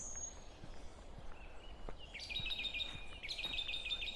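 A small songbird singing two quick phrases of rapidly repeated high notes, about two seconds in and again near the end, over faint footsteps on a woodland path and a low steady outdoor rush.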